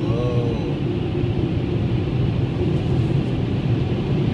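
Automatic car-wash dryer blowers running, a steady rush of air with a low hum.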